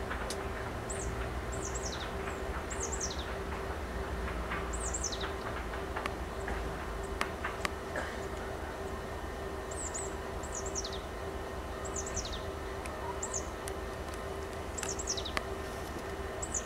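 Siemens Desiro diesel multiple unit running at a distance, a steady low drone and rumble. Over it a bird repeatedly gives short, high calls that slide downward, roughly one every second or so.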